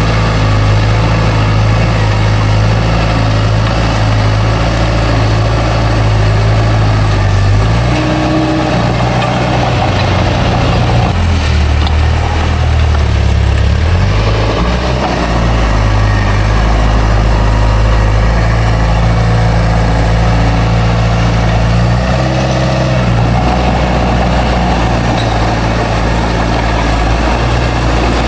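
Bulldozer's heavy diesel engine running steadily, its low drone shifting in pitch a few times as the load changes while it pushes dirt.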